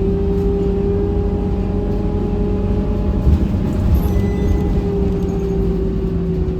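Scania K230UB Euro 5 city bus heard from on board, its diesel engine and drivetrain running steadily with a low rumble and a steady whine, the whine dipping slightly about four seconds in.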